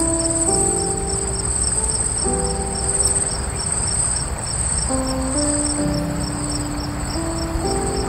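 A steady, high-pitched insect trill with a regular pulsing beneath it, over slow background music of held notes that change pitch every second or so.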